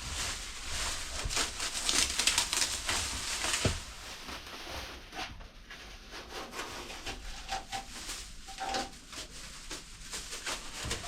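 Plastic masking sheet being peeled off a car body and crumpled, crinkling and rustling loudly for the first few seconds, then quieter scattered crackles.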